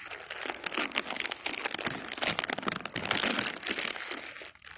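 Crinkling of a Lay's potato chip bag being handled: a dense, irregular run of sharp crackles.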